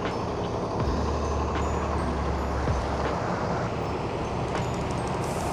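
City street traffic noise: a steady rumble of passing vehicles, with a deeper engine hum for a couple of seconds starting about a second in.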